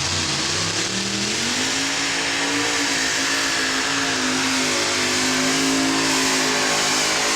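Engines of a modified pulling tractor at full throttle, rising in pitch about a second in and then holding at high revs with slight dips.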